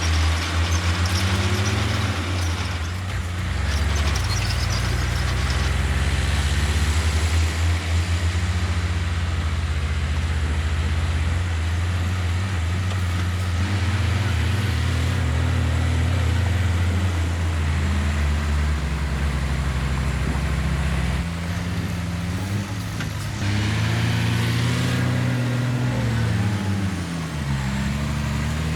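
Heavy diesel engine of earthmoving machinery running under load, its pitch rising and falling repeatedly as the engine speed changes.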